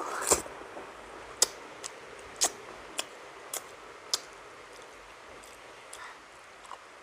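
Eating sounds of someone eating milkfish: a run of short, sharp clicks and smacks, about seven in the first four seconds, then only a few faint ones.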